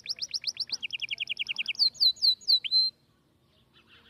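A songbird singing a fast song of rapidly repeated high notes, about a dozen a second, switching to a new phrase roughly every second and ending about three seconds in.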